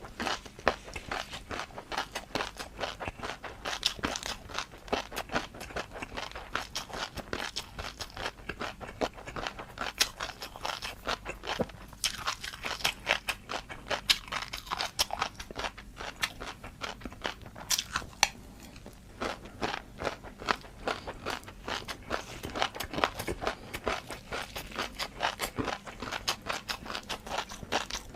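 Close-miked eating sounds: dense, irregular crunching and chewing of crunchy noodles, with a short pause about two-thirds of the way through.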